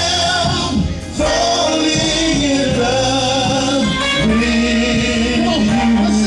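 Gospel singer holding and bending long notes over instrumental accompaniment with a steady bass line.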